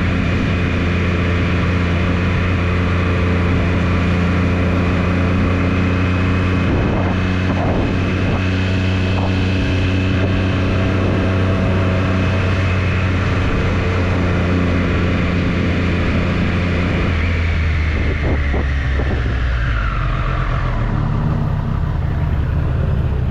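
Triumph Street Triple's three-cylinder engine running at steady revs under way, with wind noise. About two-thirds of the way through the revs fall away over a few seconds as the bike slows, settling to a lower, rougher note near the end.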